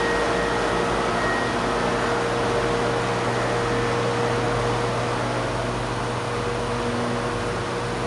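Steady mechanical hum and hiss from machinery running, with a held mid-pitched whine over it.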